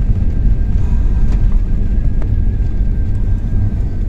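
Airbus A330 cabin noise during the landing: a steady low rumble of engines and airflow heard from inside the aircraft, with a faint steady whine above it.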